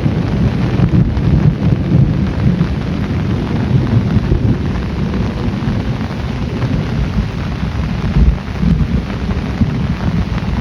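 Heavy rain falling steadily, with a deep, continuous rumble of thunder under it.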